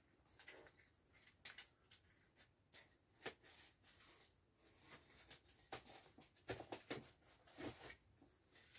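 Faint, scattered scratches, taps and rustles of hands working at a large cardboard box to get it open.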